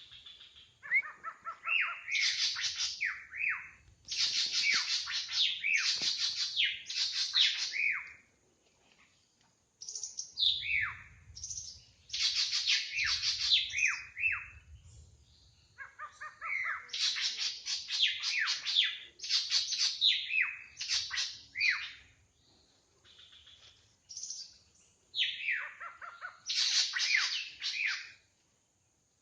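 Drongo singing in repeated bouts of quick, varied notes, with short pauses between the bouts.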